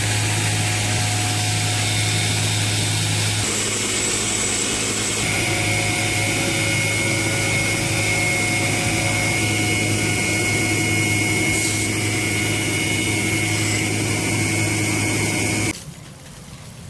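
Electric grinder running steadily while grinding the bevel on a steel blade forged from a thread tap; it cuts off abruptly near the end.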